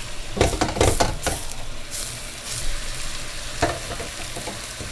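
Food frying in a pan with a steady sizzle, while a wooden spoon stirs and knocks against the pan several times in the first second and a half and once more a little past halfway.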